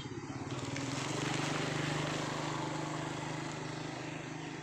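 An engine running steadily, with a rushing hiss that swells about a second in and slowly fades back.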